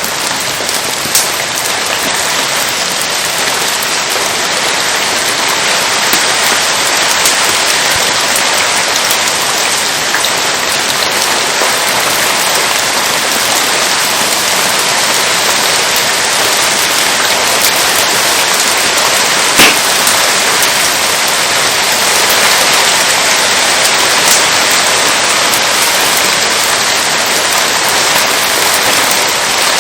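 Steady rain falling, with a few sharp pops from a wood campfire; the loudest pop comes about two-thirds of the way through.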